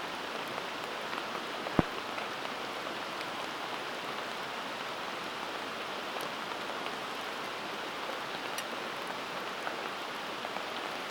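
Campfire burning with a steady hiss and scattered small crackles, and one sharp pop of the wood a little under two seconds in.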